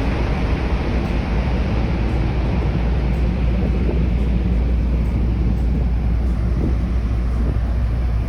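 Steady low rumble of a car ferry under way, with wind rushing over the microphone and the wash of water alongside.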